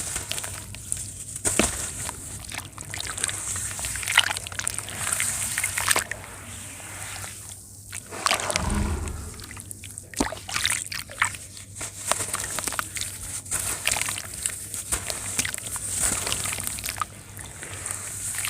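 Round shapes of pressed pure sand crumbling in water: sloshing and splashing with many small crackles and clicks, and a duller thud about halfway through.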